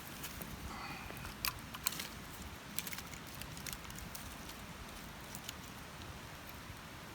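Campfire crackling: a few sharp irregular pops over a steady low rustle.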